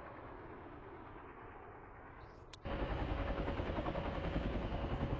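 Military aircraft engine noise: a steady distant engine sound cuts abruptly, about two and a half seconds in, to a much louder, close engine with a steady whine over a low rumble.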